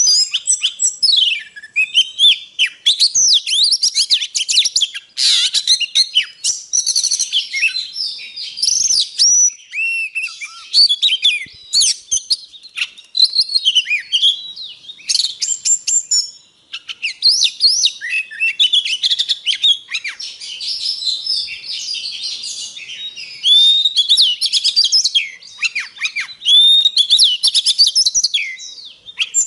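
Oriental magpie-robin singing a long, varied song of rapid clear whistles, trills and sliding notes, nearly without pause and with one short break about two-thirds of the way through.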